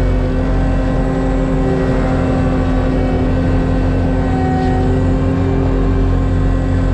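ASV RT-120F track loader's diesel engine running steadily at high revs, driving a Fecon Bullhog forestry mulcher with a steady hum from the mulcher's drive.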